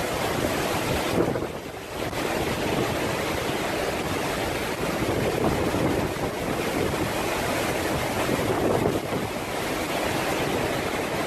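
Hurricane wind rushing across the microphone together with storm-surge waves washing in, a steady dense noise that eases briefly about a second and a half in.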